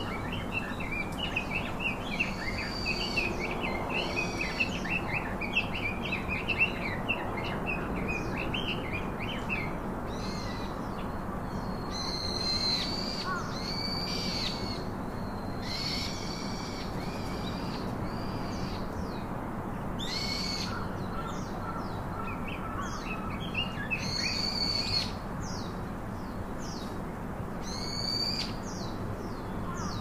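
Birds calling: a run of quick chirps through the first ten seconds, then loud calls repeated every few seconds over faint background hum.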